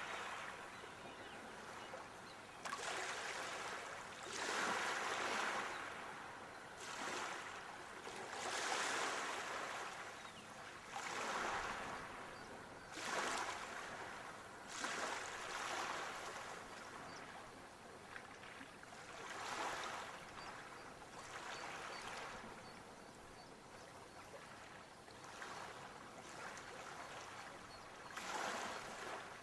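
Sea waves washing ashore, the surf noise surging and falling back every couple of seconds.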